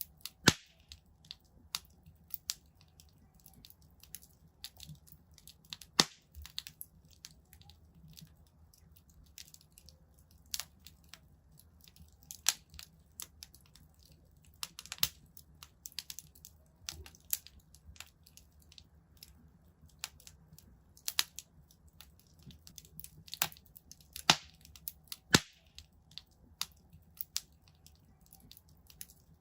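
Wood fire crackling in a fireplace: irregular sharp pops and snaps, some louder than the rest, over a low steady rumble of the flames.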